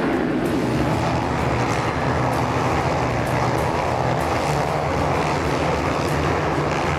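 Motocross motorcycles racing: dense, steady engine noise with pitch bands shifting as the bikes rev.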